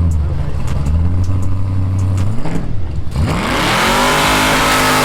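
Muscle-car V8 engine idling with a low rumble. It gives a quick blip about two and a half seconds in, then about three seconds in it revs up hard and is held at high revs with a loud rushing noise.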